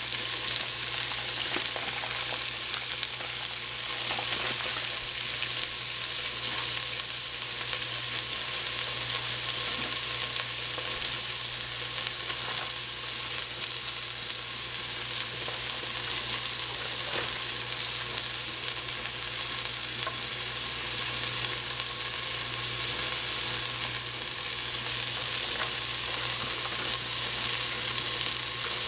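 Food frying in hot oil in a pan: a steady, even sizzle, with a constant low hum underneath.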